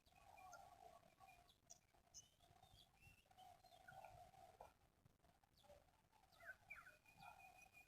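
Faint spotted dove cooing, with a few short high chirps from small birds.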